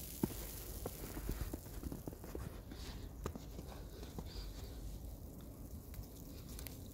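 Footsteps walking on snow: a run of short, soft steps that thin out and grow fainter in the second half, over a low steady outdoor rumble.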